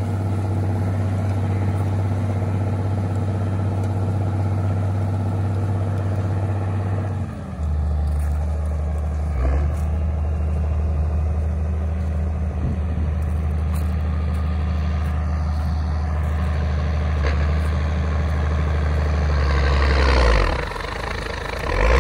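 A vehicle engine running steadily, its speed dropping to a lower, steady hum about seven seconds in. Near the end comes a brief rise of hissing noise.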